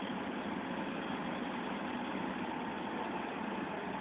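Engine idling steadily, holding an even speed with no revving or knocks.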